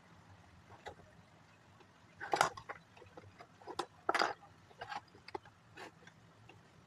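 Plastic Lego pieces being handled, a quiet stretch and then a series of short clicks and rattles, the loudest about two and four seconds in.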